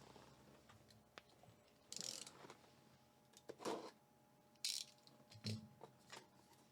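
Quiet handling of a cardboard Pokémon Elite Trainer Box being opened: a couple of brief scraping rustles, about two seconds in and again near the middle, and a few soft knocks.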